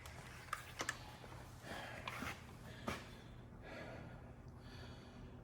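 Faint breathing with a few light clicks and knocks, spaced irregularly, as from parts being handled.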